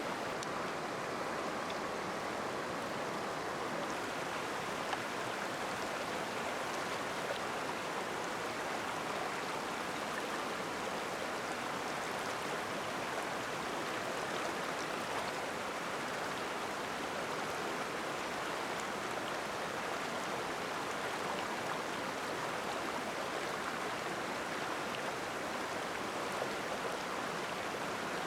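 Steady rushing of flowing water, like a stream, with no change in level and a few faint ticks.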